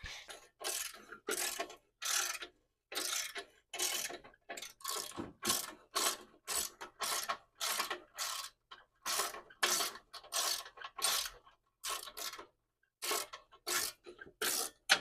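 Ratchet wrench clicking through repeated strokes at about two a second, loosening a bolt.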